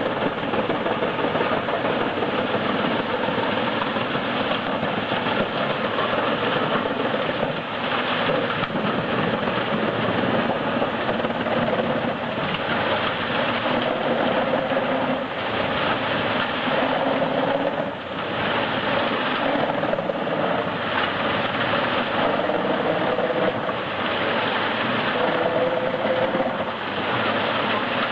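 Heizohack HM 8-500K drum wood chipper running under load, chipping logs. A dense, continuous mechanical din, with a tone that sags and recovers as the wood is fed in.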